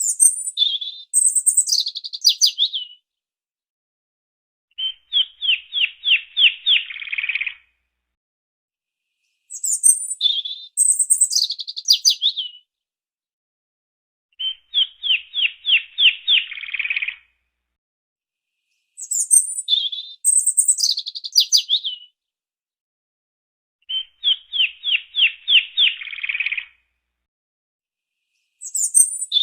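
A songbird singing, alternating between a high chirping phrase that drops in pitch and a fast run of about eight quick notes. Each phrase lasts about three seconds with a short pause between, and the two phrases repeat identically.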